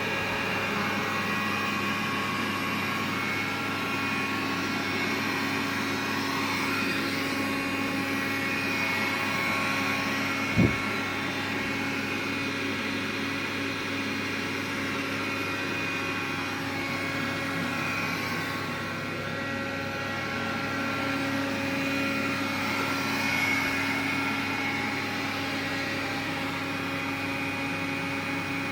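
Xiaomi vacuum cleaner running steadily, its motor and fan giving a whine of several steady tones over a hiss. The noise is what the owner calls an extraneous noise from the vacuum. A single sharp click comes about ten seconds in.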